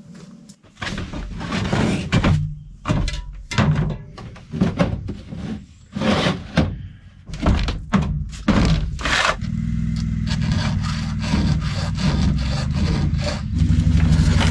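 A string of knocks and clunks, then a quad (ATV) engine starting about two-thirds of the way in and running steadily, louder near the end.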